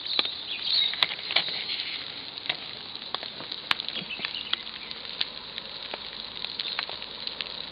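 Rain pattering steadily, with many irregular sharp drops ticking close by.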